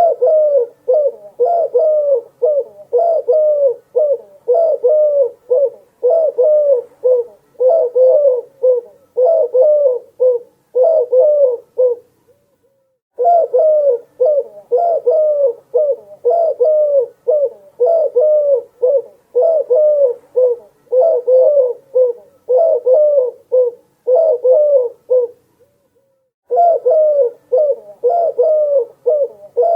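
Doves cooing in a fast, continuous run of short, bending coo notes, breaking off briefly twice, about twelve and twenty-six seconds in.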